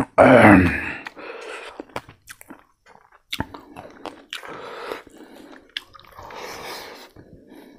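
Close-miked chewing and biting of crispy fried pork and rice. It starts with a loud burst of sound, then runs on as steady mouth noises with small sharp clicks.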